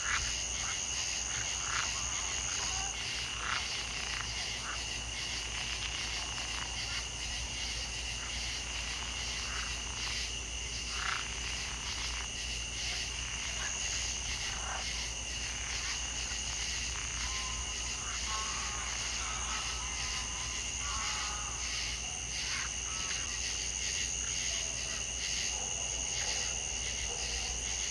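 Frogs calling in short, irregular croaks over a steady high-pitched buzzing chorus.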